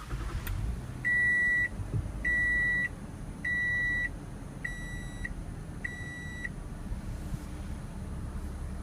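2014 Toyota Camry XLE's 3.5-litre V6 starting on the push button and settling into a low, steady idle. Over the idle an electronic chime beeps five times, about a second apart, and the last two beeps are softer.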